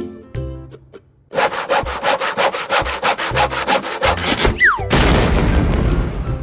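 Rhythmic rasping like sawing, about six strokes a second, followed by a short falling whistle and a stretch of rougher noise; children's background music with a beat plays at the start and returns near the end.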